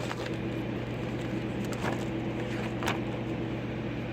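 Steady hum of a running shop heater, with a couple of faint taps about two and three seconds in.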